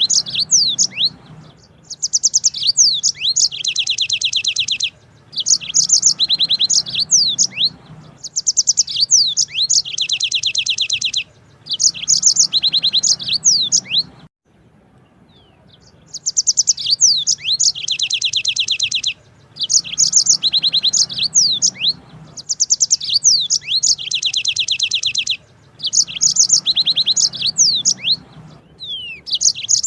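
Yellow-fronted canary (Mozambique canary) singing its long rolling song: phrases of fast, high trills mixed with quick whistled sweeps, each lasting two to three seconds with short pauses between, and one longer pause about halfway through.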